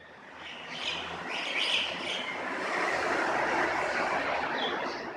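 A vehicle passing by, its noise swelling and then fading, with birds chirping over it during the first couple of seconds.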